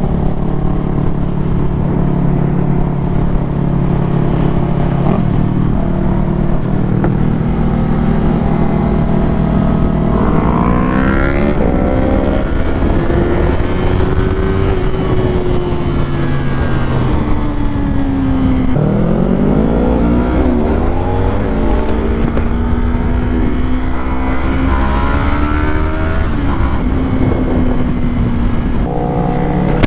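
A vehicle engine running at a steady pitch, then revving up about ten seconds in and again a little before twenty seconds, its pitch climbing and dropping in steps as it goes through the gears.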